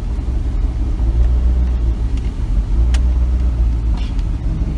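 Chevrolet Silverado pickup running at low speed, a steady low rumble, with a single click about three seconds in.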